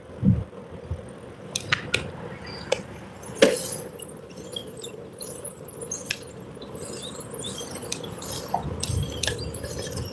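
A bicycle in motion, its metal parts rattling with scattered light clinks and ticks over a faint steady hum.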